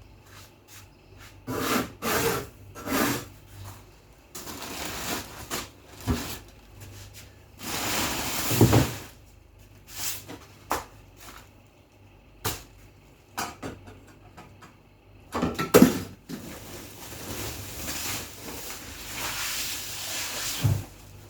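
Refrigerator cleaning: rubbing and scrubbing sounds in several stretches, mixed with scattered knocks and clatter of items being handled.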